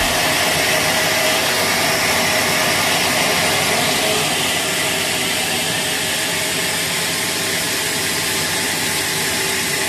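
Sawmill machinery running steadily: an even mechanical drone with a faint hum.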